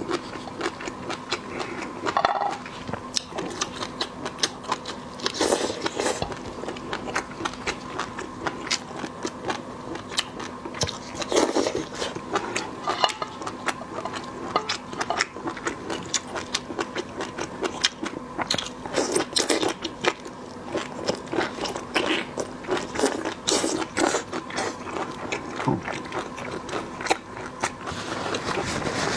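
Close-miked eating sounds: seafood being bitten, crunched and chewed, a dense run of sharp clicks and wet smacks, with a faint steady hum beneath.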